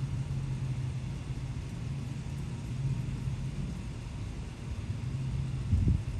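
Steady low rumble, with a short, louder thump just before the end.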